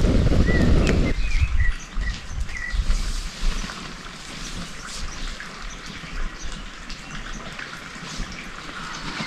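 A loud low rushing noise cuts off about a second in, and small birds give a few short chirps over the first few seconds. Faint outdoor ambience with scattered light ticks follows.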